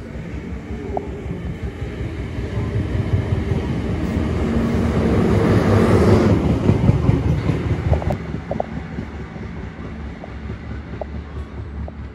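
Electric suburban train passing beneath. It grows louder to a peak about halfway through as it runs underneath, then fades as it moves away, with a steady low hum and a few light wheel clicks in the second half.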